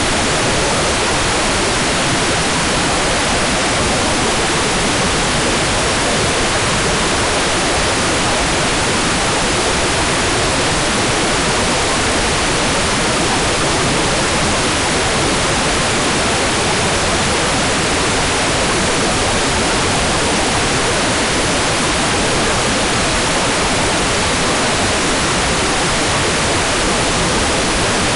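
Hair dryer running steadily: a constant, even rush of air with no change in pitch or level.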